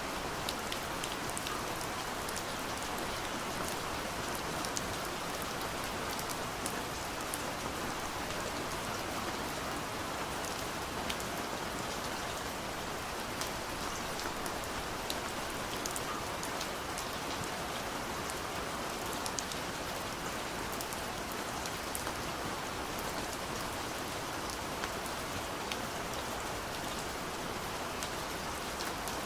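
Soft, steady rain falling on a window, an even hiss with many small drop taps scattered through it.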